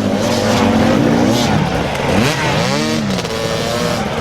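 Dirt bike engine revving, its pitch climbing and falling several times, with a sharp drop and pick-up about halfway through.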